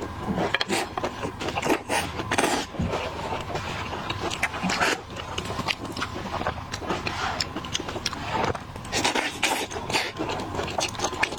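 Close-miked eating: a person biting and chewing seafood, with wet smacking and many short clicks.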